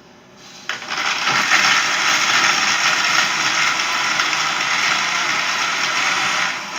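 Blender switching on under a second in and running steadily, blending a thick mix of leftover foods and sauces; a brief dip in its sound near the end.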